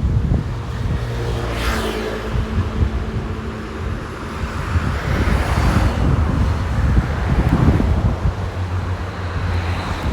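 Wind buffeting the microphone, with road traffic passing: a motor vehicle goes by about one to four seconds in, followed by another swell of traffic noise.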